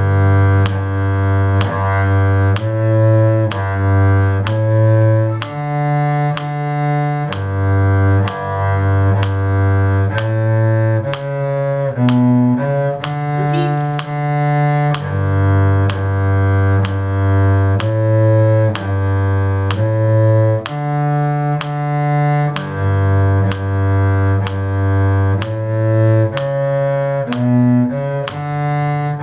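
The bass line of a tune in D major played as long, even low notes in a slow six-count meter, in the register of a cello, with each note changing roughly once a second.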